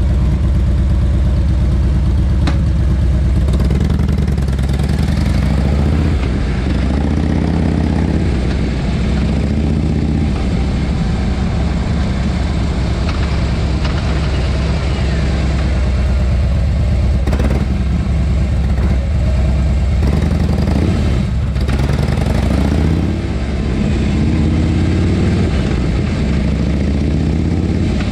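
Harley-Davidson Fat Boy's 103 cubic inch air-cooled V-twin running through a SuperTrapp aftermarket muffler, its exhaust note rising and falling as engine speed changes several times.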